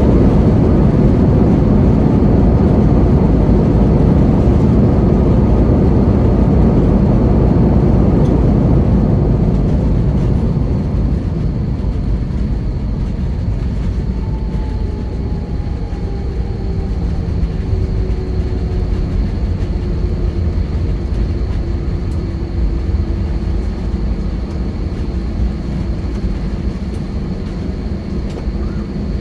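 Airbus A320 cabin noise as the jet slows after touchdown: a loud rush of engine and airflow that dies down about ten seconds in, leaving a lower engine hum with a faint whine falling in pitch.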